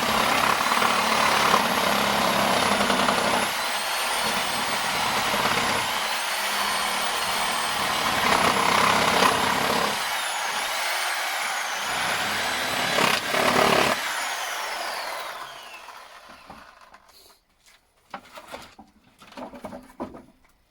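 Reciprocating saw (sawzall) cutting through pallet wood, its motor whine shifting in pitch as it works, for about fourteen seconds before it winds down; a few faint light knocks follow near the end.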